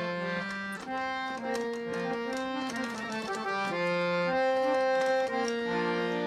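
Harmonium playing a slow melody over held chords and a low sustained note, as an instrumental introduction with no singing yet.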